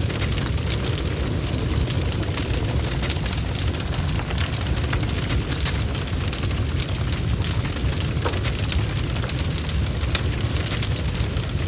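Bonfire crackling: many irregular pops and snaps over a steady low rumble of the burning fire.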